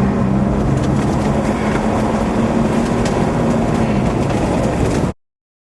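Road and engine noise inside a moving car, with a steady engine hum that fades about four seconds in; the sound cuts out abruptly to silence about five seconds in.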